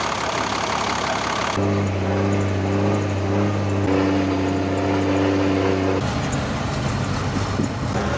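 Truck engine idling with a steady low hum. The sound changes abruptly about one and a half seconds in and again about six seconds in.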